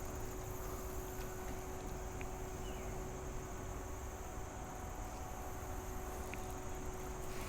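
Steady chorus of crickets or similar insects: an even, unbroken high buzz over a low steady rumble, with a faint constant hum beneath.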